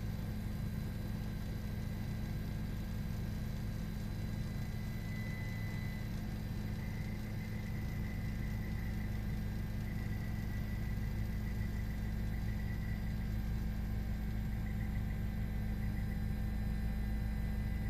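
Steady engine drone: a constant low hum with a thin high whine above it, unchanging throughout.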